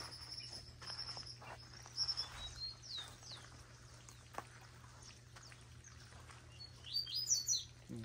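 Small songbirds calling faintly: a string of thin, high notes, then a few down-slurred whistles, and a louder quick burst of chirps near the end.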